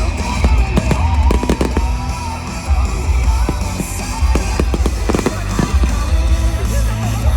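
Fireworks going off in repeated bangs and crackles over music with a heavy, steady bass.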